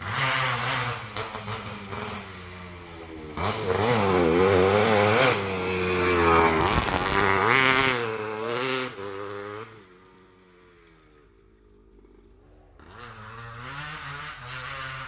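Motorcycle with a racing exhaust being revved repeatedly, the engine note rising and falling. It drops away about ten seconds in and comes back, quieter, near the end.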